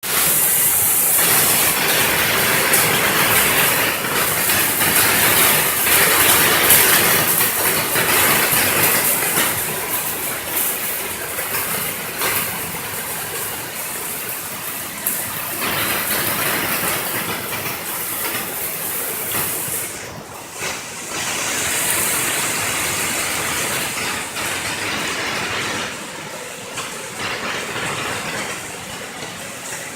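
Heavy rain pouring down as a steady hiss, strongest for the first ten seconds or so and then a little lighter, with a brief lull about twenty seconds in.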